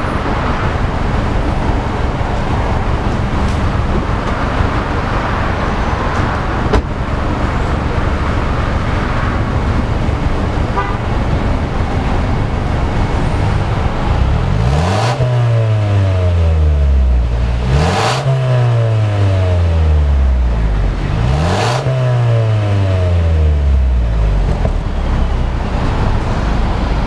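Mercedes-Benz A250's turbocharged 2.0-litre four-cylinder idling through an Armytrix valved aftermarket exhaust, then revved three times about three seconds apart from roughly halfway through. Each rev rises quickly, gives a sharp crack at its peak and falls back to idle.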